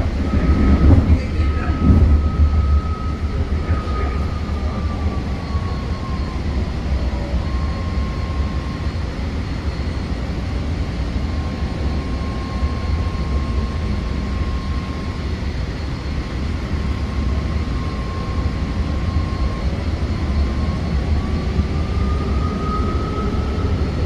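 Train running with a steady low rumble and a high whine that slides down in pitch about six seconds in, holds, then rises again near the end; a few louder knocks come in the first two seconds.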